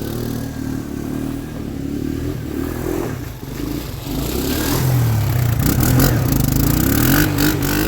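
Three-wheeler's engine running and revving up and down as it is ridden, the pitch climbing about five seconds in.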